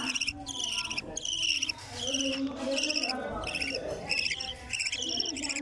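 Budgerigar chicks calling in a rapid series of short, slightly falling, raspy high chirps, about two to three a second.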